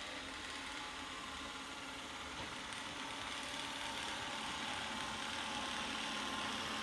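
Narwal Freo Z10 robot vacuum running: a steady motor and fan whir that grows slightly louder towards the end.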